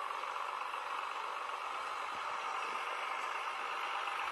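Tractor running steadily, a constant even noise with no change in speed.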